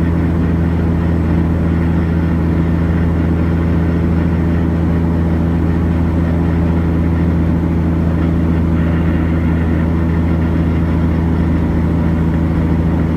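Semi-truck diesel engine running steadily under way, heard from inside the cab as a constant low drone with road noise.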